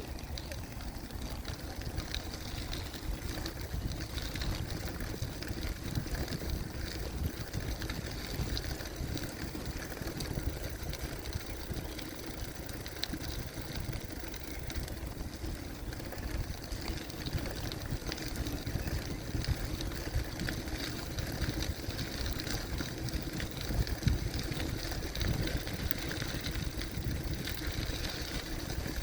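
Ride noise from a gravel bicycle rolling along a forest trail: tyre noise on the path with wind buffeting the microphone as a steady, fluttering rumble.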